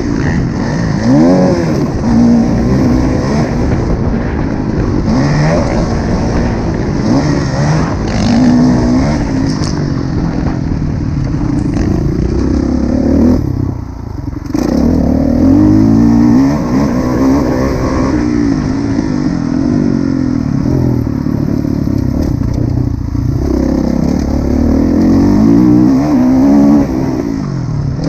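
Kawasaki KX450F's 450 cc four-stroke single-cylinder motocross engine, revved hard and backed off over and over as the bike is ridden around the track. The throttle shuts off briefly about halfway through before the engine pulls hard again.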